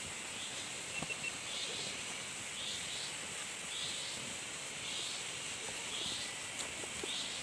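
Forest insects keeping up a steady high-pitched drone, with a short call repeating about once a second over it.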